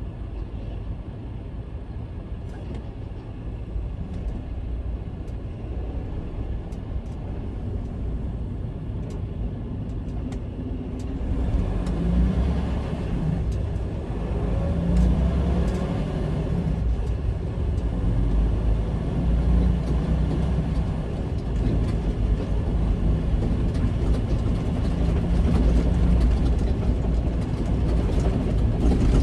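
Semi-truck's diesel engine and road noise from inside the cab while driving, getting louder about a third of the way in as the truck picks up speed.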